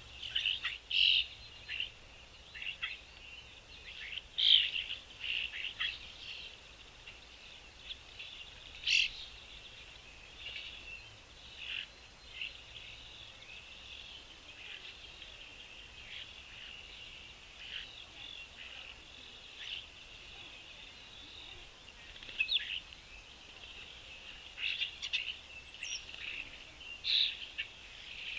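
Small birds chirping in a continuous twittering chorus, with frequent short, sharp chirps standing out, several of them louder bursts near the start, middle and end.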